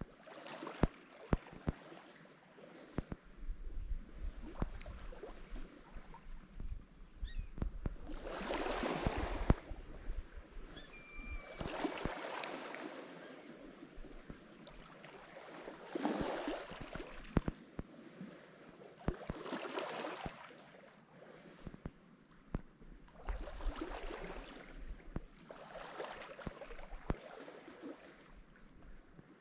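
Lake Michigan waves breaking and washing up the shore, each wave swelling and fading every few seconds, with many small sharp splashes and clicks in between.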